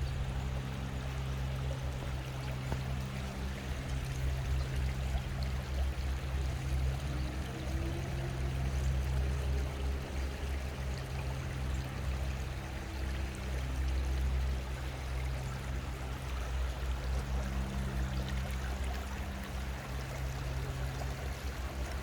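Water running steadily, as in a stream or a small cascade, with a steady low hum beneath it.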